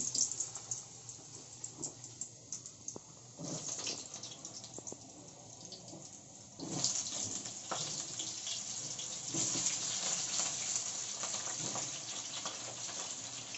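Potato pieces deep-frying in hot refined oil in a pan: a steady sizzle with scattered crackles, louder from about halfway through.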